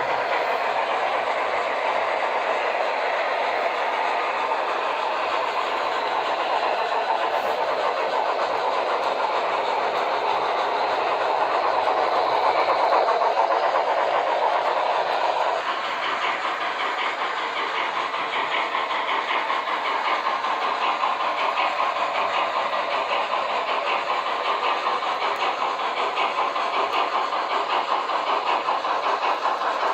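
HO scale model steam locomotive running on the layout, its onboard sound system playing steady steam-engine chuffing through a small speaker over the wheel and motor noise. The sound changes abruptly about halfway through.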